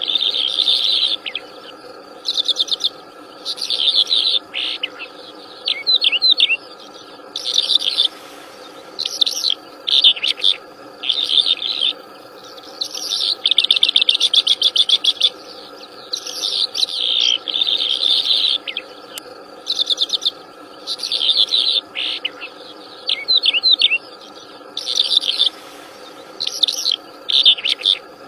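Wild songbird singing vigorously in short bursts of rapid chirps and trills, one to two seconds apart, over a steady lower drone.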